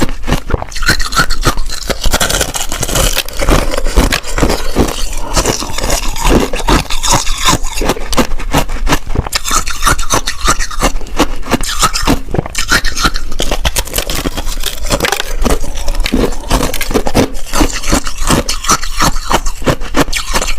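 Soft shaved ice being chewed and crunched, a rapid continuous crackling crunch.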